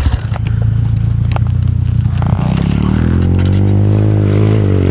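Dirt bike engine running, its pitch rising and then falling back once as it is throttled up and eased off. A few sharp knocks and scrapes sound in the first second and a half.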